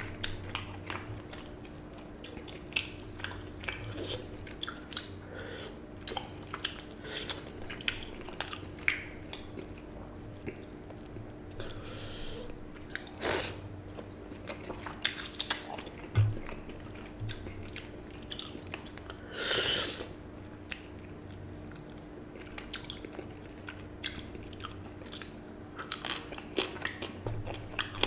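Close-miked chewing, biting and wet mouth clicks of a person eating water-soaked rice by hand, with many short sharp clicks and two longer breathy swells, one midway and one about two-thirds in, over a faint steady hum.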